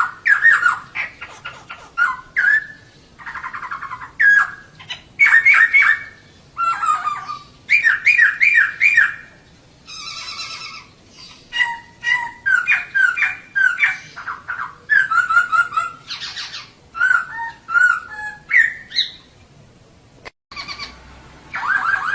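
Female poksay (laughingthrush) singing a rapid, varied string of chirps and whistled notes, with a couple of harsh rasping calls mixed in. The sound cuts out for a split second about twenty seconds in.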